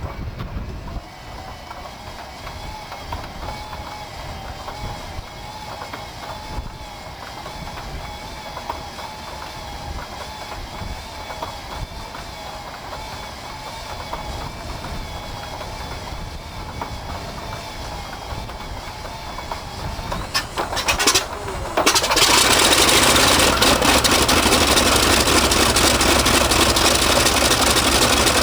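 Douglas DC-6's Pratt & Whitney R-2800 radial piston engine being started: for about 20 seconds the starter whines steadily while the engine turns over with an uneven low pulsing, then it fires and catches, jumping to a loud, steady run.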